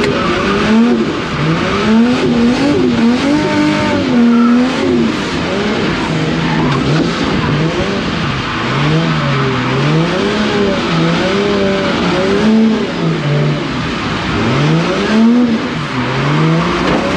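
Nissan 180SX drift car's engine revving hard and falling away over and over, its pitch rising and dropping about once a second as it is driven sideways through corners, heard from inside the cabin.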